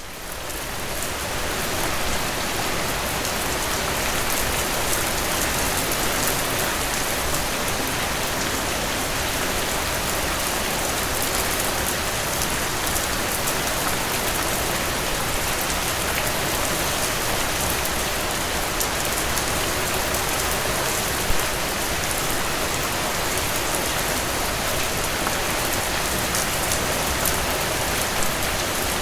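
Heavy rain pouring down in a steady, dense downpour, fading in over the first couple of seconds and then holding even.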